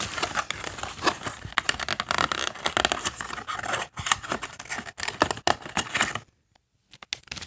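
Plastic and paper packaging being handled and torn open by hand: a dense run of crinkling and ripping that cuts off suddenly about six seconds in.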